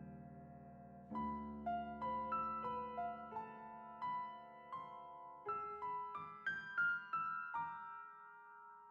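Background music: a slow solo piano melody, a held chord fading out, then single notes played one after another from about a second in.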